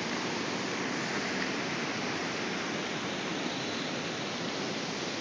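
Storm runoff rushing as a torrent after a short heavy rain, a steady rushing of water.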